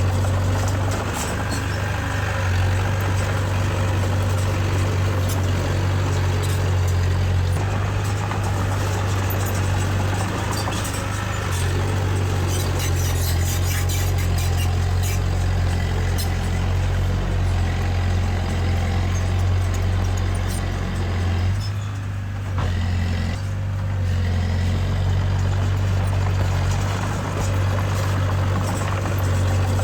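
Diesel engine of heavy earthmoving machinery running steadily under load, a deep constant hum, with a spell of clicking and rattling near the middle.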